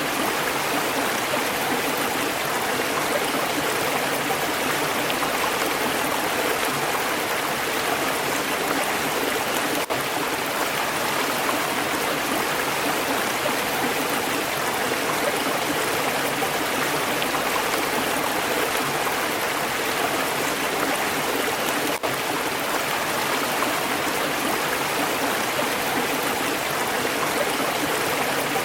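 Stream water flowing steadily, an even rushing sound that hardly changes.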